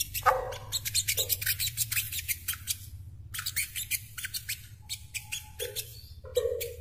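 Brown-throated sunbird calling: rapid trains of sharp, high chips, several a second, broken by a short pause about three seconds in, over a faint low hum.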